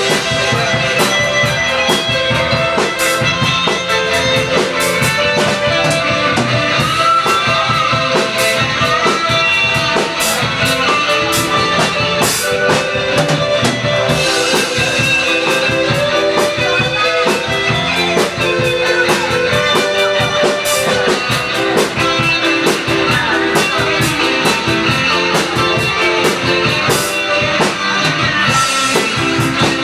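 Rock band playing: guitar over a drum kit keeping a steady beat.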